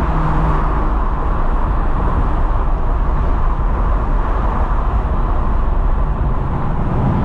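Steady road and engine noise inside a car cruising at speed, mostly low rumble and tyre hiss with no distinct engine note.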